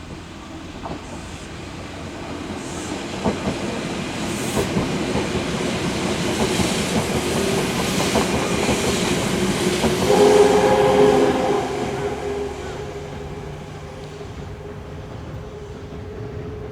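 Kintetsu train passing, growing louder to a peak about two-thirds of the way through, with wheels clicking over rail joints, then fading away. A few steady tones sound briefly at the loudest point.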